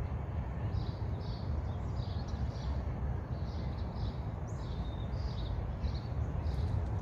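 Small birds chirping, a few short high chirps a second, over a steady low rumble.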